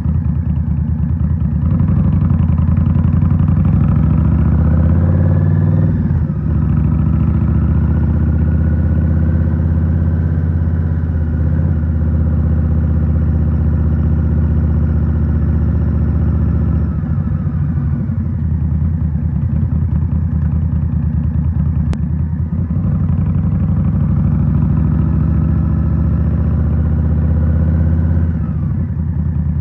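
2023 Indian Scout Rogue's 69 cu in V-twin with a Rinehart slip-on exhaust pulling away and accelerating, revs rising, shifting up about six seconds in and rising again, then running at a steady cruise. The revs dip in the middle and drop away near the end as the throttle is eased off.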